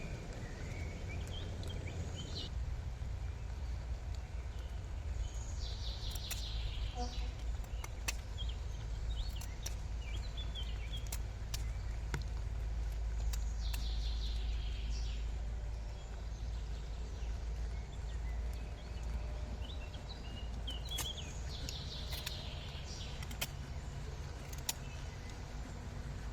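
Outdoor wilderness ambience: a steady low rumble with scattered small clicks, and three short bursts of bird calls spread through it.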